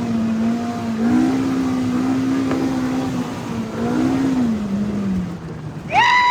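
Side-by-side UTV engine running under way, its note rising about a second in and dropping away after about four seconds. Near the end a loud, short, high-pitched call rises and falls.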